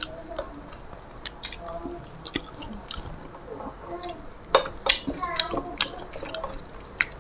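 Close-up eating sounds of rice and curry eaten by hand: wet, smacking chewing and squelching of rice being mixed with fingers. Many sharp clicks run through it, the loudest about four and a half seconds in.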